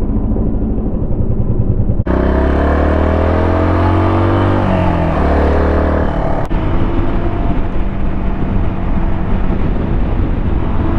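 Suzuki DR200's single-cylinder engine pulling under way, its pitch climbing steadily through a gear from about 2 seconds in, then dropping about 5 seconds in as it shifts up, with a rush of wind and road noise.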